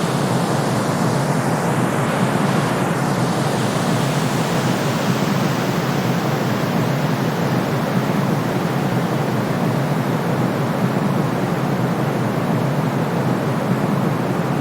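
Steady white noise, fuller at the low end than the top: a continuous soothing hiss for calming a colicky baby, with no change in level.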